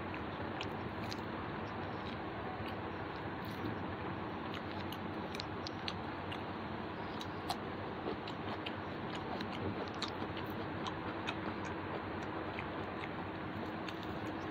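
A person chewing and eating rice and chicken by hand off a banana leaf: soft, scattered mouth and finger clicks over a steady background hiss.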